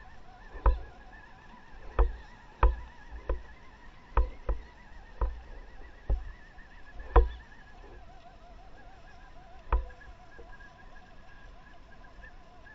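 A run of about ten sharp, irregular knocks, bunched in the first seven seconds with a last one later, over a faint wavering whine.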